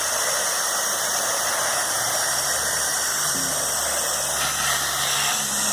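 Pressure washer spraying through a dual-pressure lance at low pressure, applying bleach soap solution to house siding: a steady, loud hiss of spray over a faint low hum.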